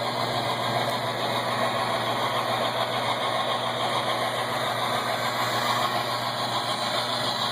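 Model train locomotive running on its track, its onboard sound system playing a steady chugging engine sound through a small speaker over the hum of the drive motor.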